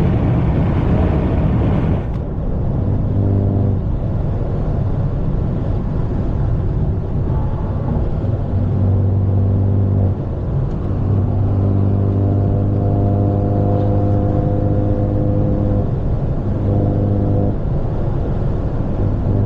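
BMW 530 with a straight-piped, catless exhaust while driving: a heavier rumble for about the first two seconds, then a steady low exhaust drone that fades in and out in stretches.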